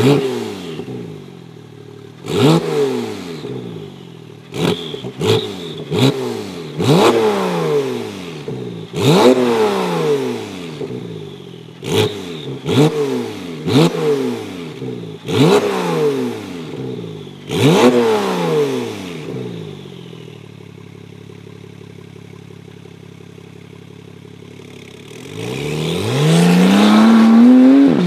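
Porsche 911 Turbo S (991.2) twin-turbo flat-six through a Baq Exhaust turbo-back system with X-pipe, revved about ten times in quick blips. Each rev rises sharply and falls back, with sharp cracks on some. It then settles to a steady idle before a longer rev climbs near the end.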